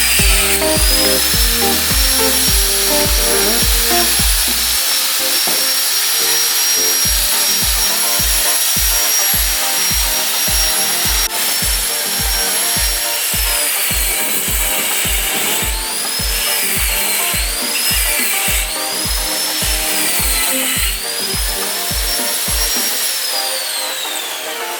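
Background music with a steady beat, over the high whine of a power tool that rises and falls in pitch and winds down near the end.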